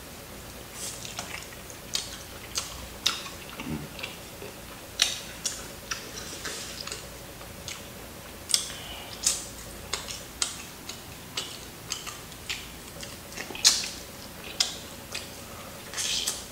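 Crispy fried chicken crust crunching and crackling as it is bitten and chewed close to the microphone: irregular sharp crunches, about one or two a second, with a louder crunch near the end.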